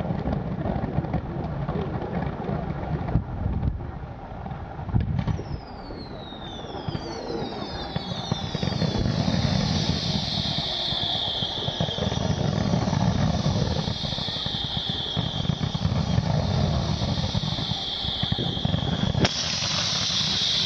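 Fireworks display: a run of whistling fireworks, their high whistles falling in pitch one after another every couple of seconds over a steady hiss and a low rumble. Near the end a louder, sharper hiss starts suddenly.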